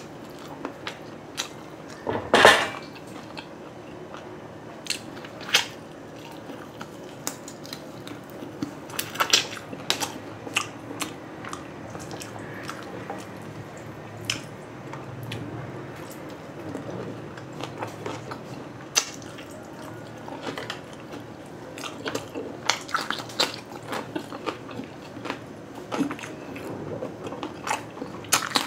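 Close-miked eating sounds: chewing and biting grilled meat skewers, with scattered wet clicks and smacks. There is a sharp, loud clack about two seconds in, and dripping as a skewer is lifted out of a jar of spiced vinegar.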